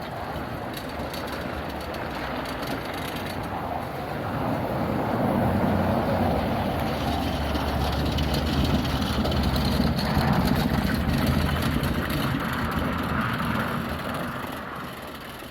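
Tow vehicle pulling a car trailer at highway speed: steady engine and road noise. It grows louder about four seconds in and eases off near the end.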